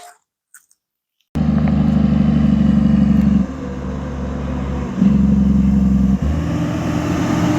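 Motor vehicle engine running close by, cutting in abruptly about a second in after near silence; its note steps louder and softer a few times as it runs.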